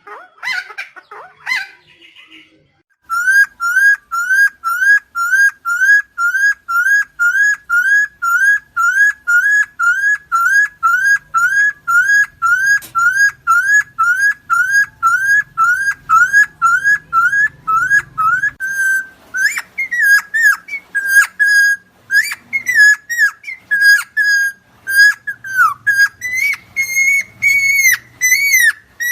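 Helmeted friarbird calling: a few falling calls, a brief pause, then one rising note repeated about twice a second for a long run. About two-thirds of the way in, this breaks into a more varied, irregular series of notes.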